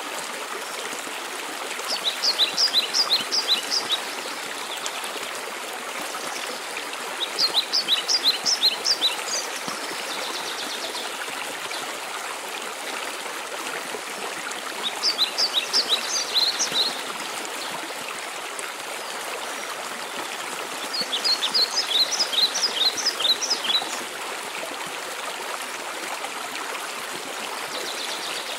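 Steady rushing water of a waterfall. A songbird sings a short phrase of rapid, high, repeated notes four times, about every six seconds.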